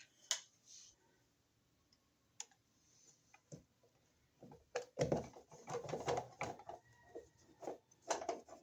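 Small clicks, taps and rattles of an outlet cover plate being handled and fitted over a wall receptacle, sparse at first and then a busier run of knocks about halfway through.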